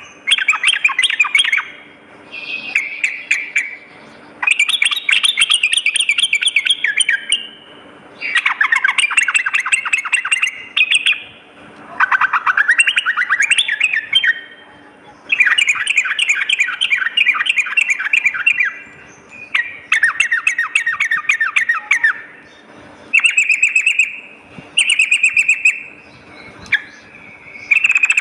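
Yellow-vented bulbul (trucukan) singing: about ten bursts of fast, chattering repeated notes, each one to three seconds long, with short pauses between them. A faint steady low hum runs beneath.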